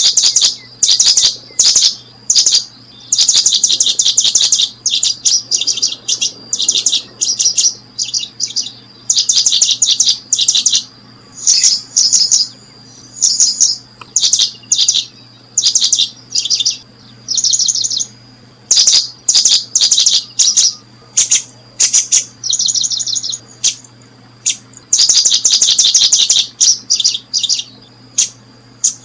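Small bird chirping in quick high-pitched trilled bursts, one after another with short gaps.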